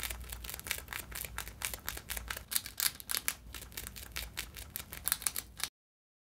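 Pet rat chewing a small piece of food held in its paws: rapid, irregular crunching clicks that cut off sharply near the end.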